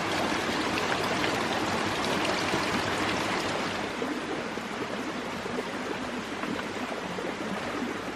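A stream of running water flowing steadily, easing a little about halfway through.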